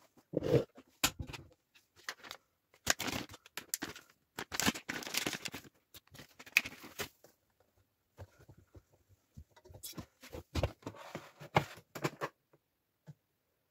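Irregular rustling and soft clicks and knocks of laundry being handled and loaded into a front-loading washing machine, coming in bursts and stopping about twelve seconds in.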